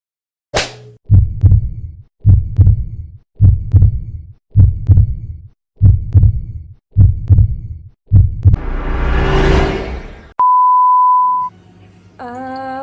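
Heartbeat sound effect: seven double thumps about a second apart, each with a deep lub-dub. A rising whoosh follows, then a steady beep held for about a second, and a buzzing horn-like tone starts near the end.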